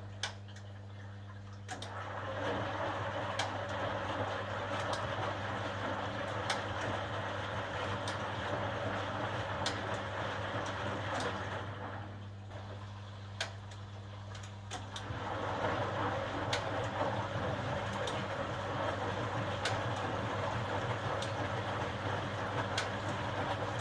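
HUWA Automatic Standard 4 washing machine mid-wash: a steady low motor hum under the swishing and sloshing of laundry and water in the turning drum. The sloshing stops for about three seconds partway through, then starts again.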